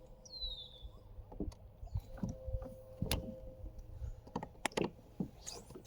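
Scattered sharp knocks and clicks of gear being handled in a kayak, irregular and unevenly spaced, over a faint steady hum. A short falling bird chirp sounds just after the start.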